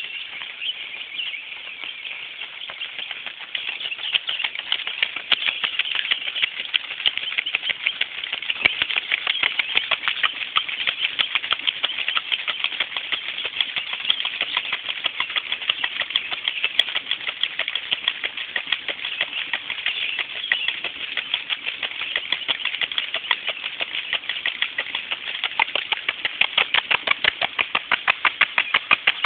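Nelson Rain Train traveling sprinkler running, its spinning spray arms throwing water in a rapid, even pulsing patter that grows a little louder after a few seconds.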